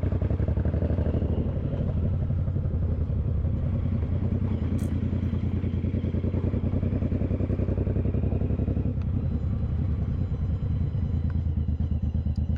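Suzuki Boulevard M109R's 1800 cc V-twin engine running at a steady pace while the motorcycle is ridden, with a rapid, even beat of exhaust pulses.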